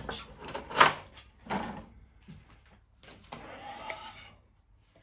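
Recoil pull-start cord of a small lawn mower engine being yanked several times: a few short pulls, then a longer one about three seconds in. The engine turns over but does not catch, though it has spark and fuel.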